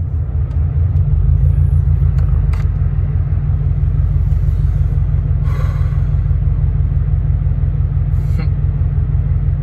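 Car engine idling, a steady low rumble heard inside the cabin, growing a little louder about a second in.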